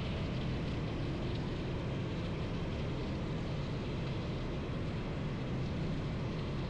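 Motorcycle engine running at a steady pace, with no revving, over a steady hiss.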